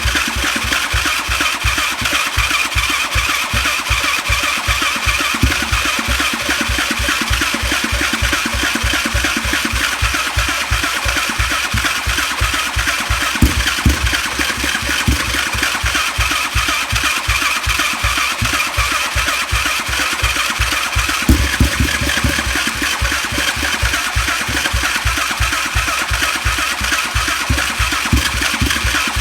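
2006 Suzuki LTR450's single-cylinder engine being cranked over on the electric starter in a steady, fast rhythm without catching and running. It is a quad that has spark and cleaned injectors but won't start.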